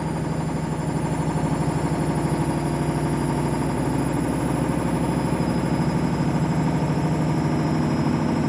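Candy washing machine on its spin cycle: a steady motor hum with a fast, even throb from the spinning drum, getting slightly louder as it goes.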